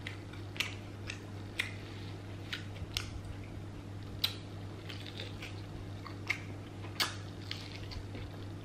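Close-miked chewing of sauced fried chicken: soft wet mouth sounds with scattered sharp clicks and smacks every second or so, over a low steady hum.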